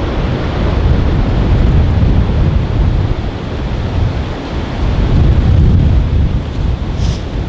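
Strong gusting wind buffeting the microphone: a loud low rumble that swells and eases with the gusts.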